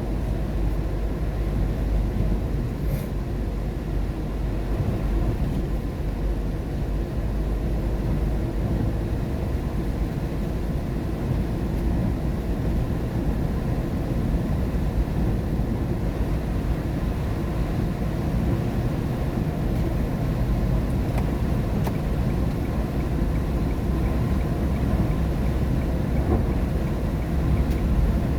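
Steady low rumble of a car driving on a rain-wet road, heard from inside the cabin: tyre and road noise with the engine underneath.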